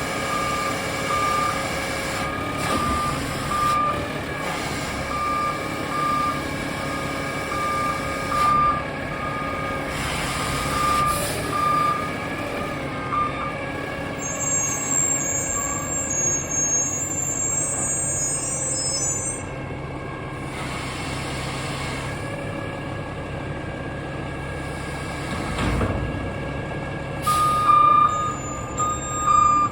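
Garbage truck backing up, its reverse alarm beeping over the running diesel engine, with a few short hisses of the air brakes. The beeping stops about halfway through and starts again near the end.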